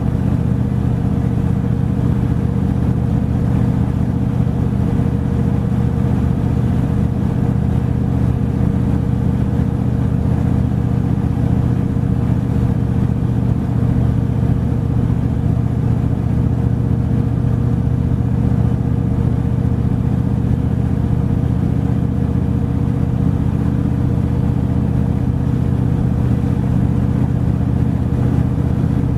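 Steady engine and road drone of a truck driving at a constant speed, with a low hum that holds one pitch throughout.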